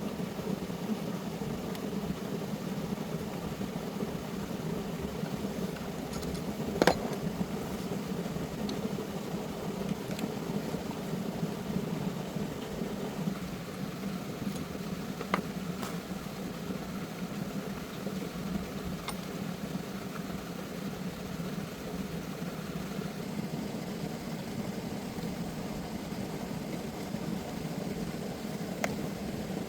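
Steady machine drone, like a small engine running, with three sharp clicks spread through it, the loudest about seven seconds in.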